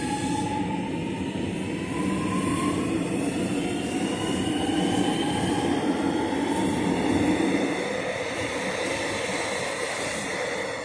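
Melbourne Metro electric train's traction motors whining, several tones rising steadily in pitch as it accelerates, over the rumble of the train on the rails; the sound eases off near the end.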